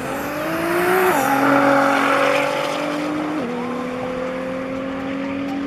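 Nissan GT-R R35's twin-turbo V6 accelerating hard from a drag-strip launch. Its pitch climbs, then drops at an upshift about a second in and again after about three and a half seconds.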